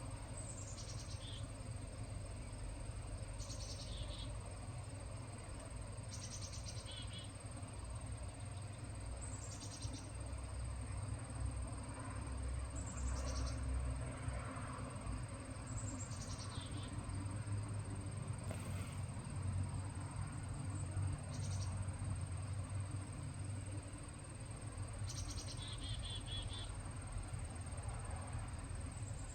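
Black-capped chickadee calling: short high notes that slide downward, repeated every two to three seconds, over a steady low rumble of distant traffic. A thin steady high-pitched tone runs underneath.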